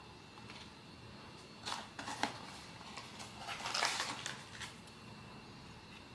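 Blind-box packaging being handled, crinkling and rustling in two short spells: one about a second and a half in, and a longer, louder one around four seconds in.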